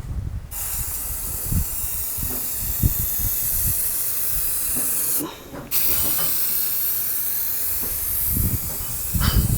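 Spray paint hissing out in two long, steady bursts with a brief break about five seconds in, as semi-gloss paint is sprayed onto the engine bay.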